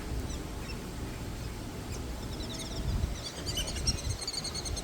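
Small birds chirping and twittering in quick, high notes, growing busier from about three seconds in, over a low background rumble.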